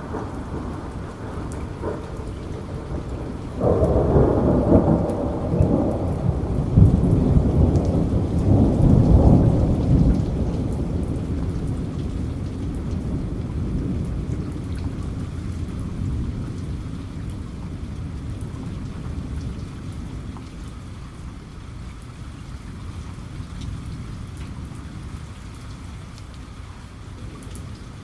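Steady rain with a thunderclap about four seconds in: a deep rumble that swells for several seconds, then slowly dies away under the rain.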